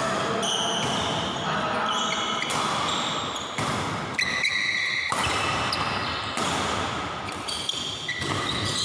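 Badminton rally: shoes squeaking on the court floor in short high squeals, and rackets sharply striking the shuttlecock every second or two.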